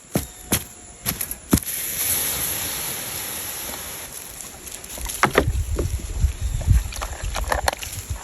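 A few sharp knocks, then a hiss that swells about two seconds in and slowly fades: a campfire being put out, its embers hissing with steam. Low rumbling and clattering follow near the end.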